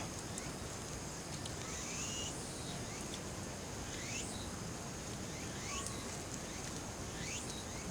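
Outdoor summer ambience: a steady high insect drone, with short rising chirps repeating about once a second.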